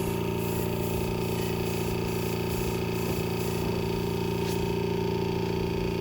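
Air compressor running steadily with an even hum, supplying air to a paint spray gun.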